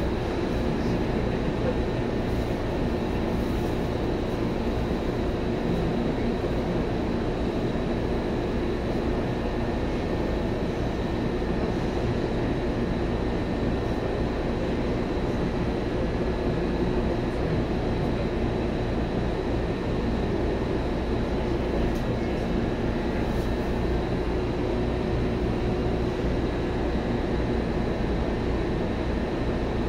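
Steady hum and rumble inside a Seibu 2000 series electric commuter train car, with a faint steady high whine and no rising motor whine or rail-joint clicks.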